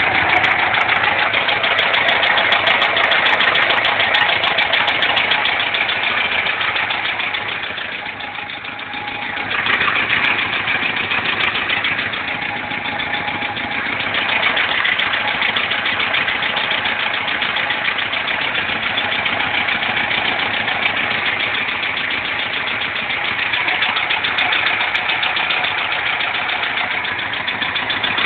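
Car engine idling with a knock and a whistle, after a start on a visit to the parked car; the owner cannot tell what is knocking. The sound dips briefly about a third of the way in, then returns.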